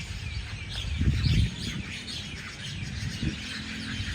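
A large flock of birds chirping constantly, many short high calls overlapping. A loud low rumble rises about a second in and fades half a second later.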